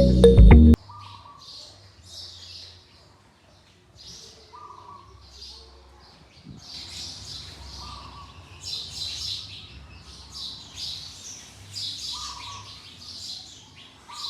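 Music cuts off about a second in. Then small birds chirp: many short high chirps in clusters, with a brief lower call repeating every two to three seconds.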